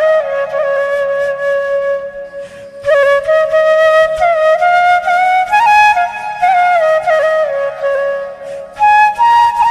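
Background music: a solo flute playing a slow melody that bends and slides between notes.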